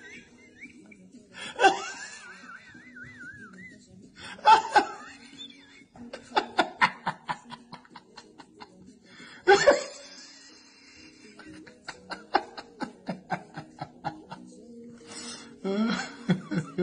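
A person laughing hard in repeated fits: sudden loud, high-pitched shrieks, then runs of quick, even "ha" pulses, about four or five a second. A faint steady low hum sits underneath.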